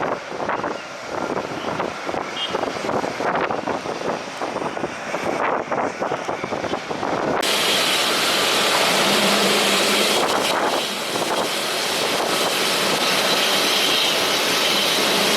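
Wind gusting on the microphone for the first seven seconds or so. Then a loud, steady jet-airliner engine noise suddenly takes over and holds to the end.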